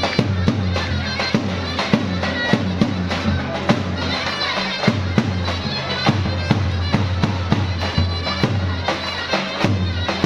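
Turkish folk wedding music played live: a loud, reedy folk wind instrument carries the melody over a steady low drone, with regular drum beats a few times a second.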